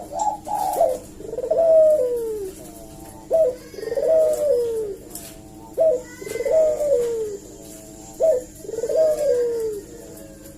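Barbary dove (burung puter) cooing repeatedly. Each phrase is a short sharp note followed by a longer coo that falls in pitch, about one phrase every two and a half seconds, four or five in all.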